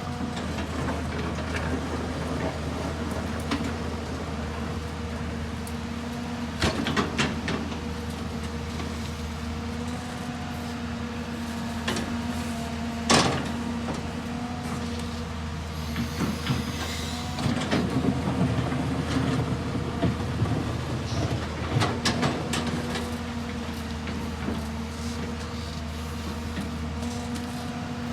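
Excavator engine running steadily with a constant hum, under irregular metallic clanks and scraping from the machine at work. A single sharp bang about thirteen seconds in is the loudest moment.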